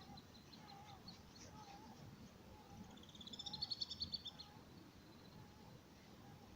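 Birds calling: a quick trill of high chirps for about a second and a half, starting about three seconds in, over softer short calls repeating every half second or so.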